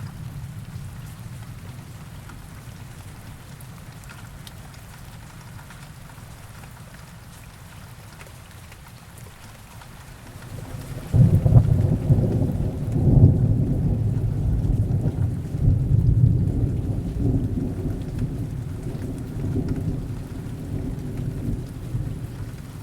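Heavy rain falling steadily, then about halfway through a loud low thunder rumble breaks in suddenly and rolls on, slowly easing off.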